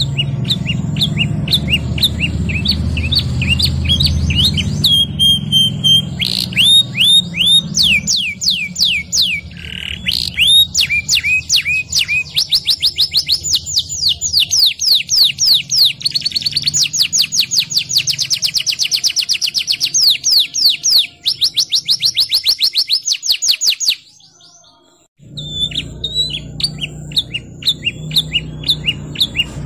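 Domestic canary singing in full song: long runs of rapidly repeated high notes, trills and rolls of many notes a second, with sharp high whistles between phrases, over a low steady hum. About four-fifths of the way through, the song and hum cut off abruptly for about a second, then the song resumes.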